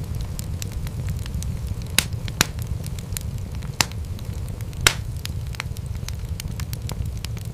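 Wood fire crackling in a fireplace: a steady low rush from the flames under frequent small pops, with a few louder snaps, the sharpest about two and five seconds in.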